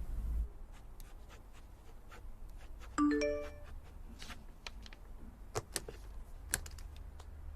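A short electronic chime of a few stepped notes about three seconds in, with scattered light clicks and taps around it.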